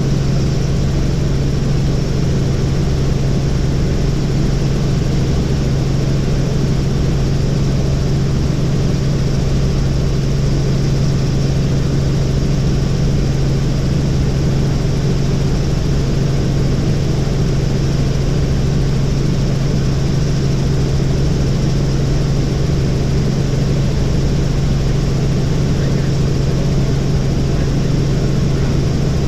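Helicopter in flight, running steadily with a constant low hum from rotor and engine. There is no change in pitch or level throughout.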